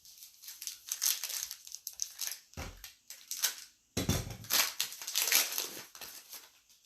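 A trading card pack's wrapper being torn open and crumpled in a string of crinkling, crackling rustles, with a couple of duller bumps midway.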